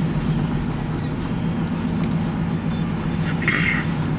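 Steady engine and road noise from inside a moving car's cabin, with a short hiss about three and a half seconds in.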